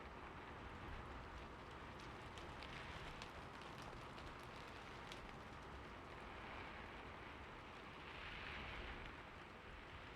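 Soft, steady rain, with a few sharp drip ticks in the first half and a brief swell of hiss near the end.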